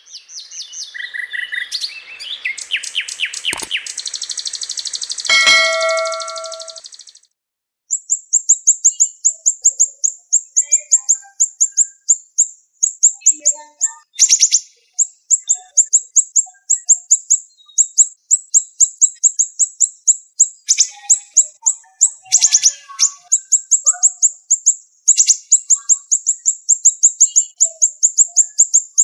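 A siri-siri songbird giving rapid, high, sharp chirps in a dense unbroken run, several a second. This starts about eight seconds in, after a short music-like intro that ends in a chime.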